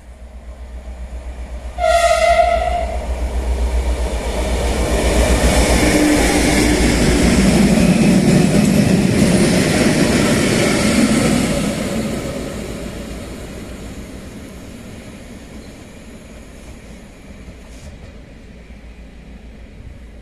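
A locomotive's horn sounds one blast of about a second, then a train of locomotives runs past close by with engine rumble and wheel-and-rail noise. The noise is loudest in the middle and fades as the train moves away. The train is a class 55 diesel hauling preserved electric locomotives.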